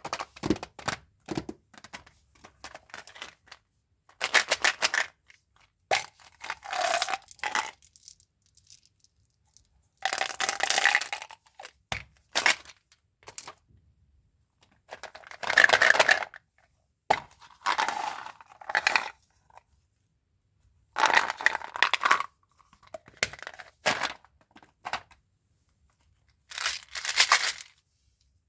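Candy wrappers being torn and crinkled open by hand, in short rustling, tearing bursts with brief pauses between them.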